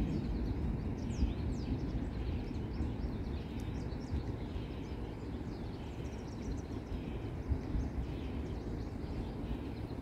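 Small songbirds chirping: many short, quick high chirps in loose runs, over a steady low rumble of outdoor background noise.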